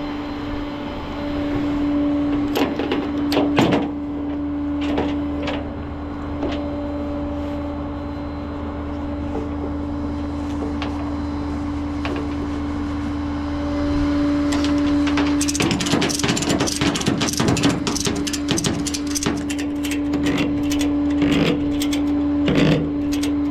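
Tow truck running with a steady, even hum while the disabled van is being secured and lifted. Scattered clicks and knocks sound over it, turning into dense rattling about two-thirds of the way through.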